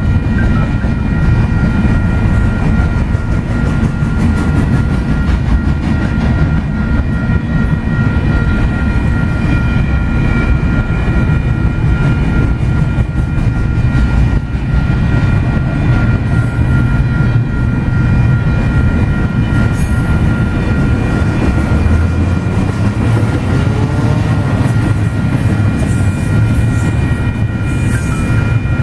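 Double-stack container freight train rolling through a grade crossing: a steady, loud rumble of wheels on rail, with the crossing bell's steady high ringing over it.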